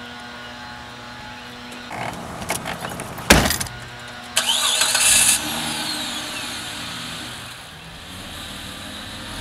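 A sharp thump, then a Chrysler Sebring convertible's engine is cranked and starts with a loud burst about four and a half seconds in, running on steadily afterwards.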